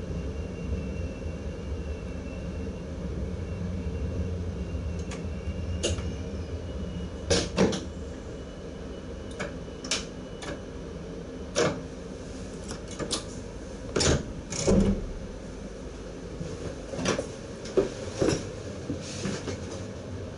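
ICM electric multiple unit rolling slowly to a stop, heard from the driver's cab as a low rumble with a faint high whine that fades after about seven seconds. Then come a series of irregular sharp clicks and knocks from handling in the cab.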